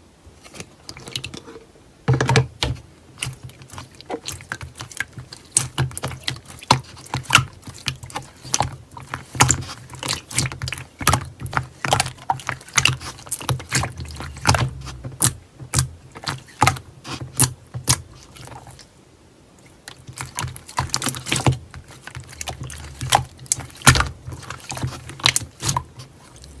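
Slime being squeezed, folded and pressed by hand, making rapid wet clicks and pops of trapped air in bursts, with a short lull about two-thirds of the way through.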